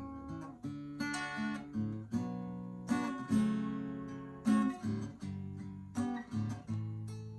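Acoustic guitar playing an instrumental passage between verses of a song, chords strummed and picked every half second to a second, each ringing and fading.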